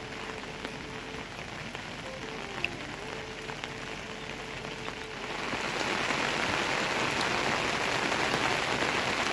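Rain falling on surfaces, growing heavier and louder about five seconds in.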